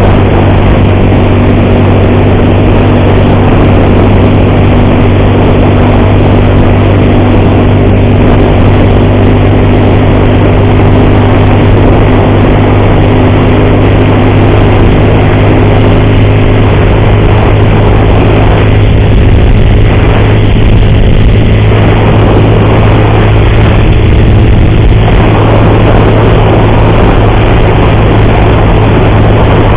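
Worn, high-mileage motorcycle engine running at a steady cruise under a loud, even rush of riding noise, carrying the ugly noise that the rider puts down to a worn timing chain.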